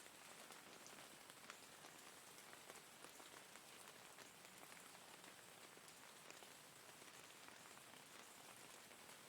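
Faint, steady rain falling, with many small drop ticks scattered through it.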